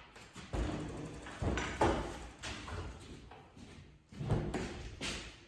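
A handful of separate knocks and thuds: wooden trim being handled and knocked against things as it comes off the walls.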